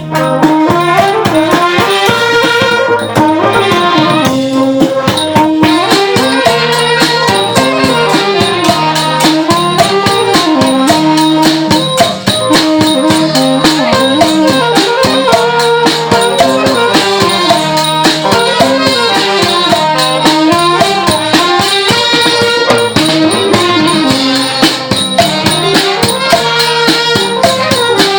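Thai brass band (trae wong) playing a lively tune: a wind melody over fast, steady percussion.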